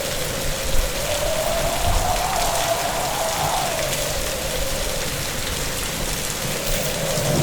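Heavy rain pouring steadily, with a single wavering tone that rises and falls running underneath it.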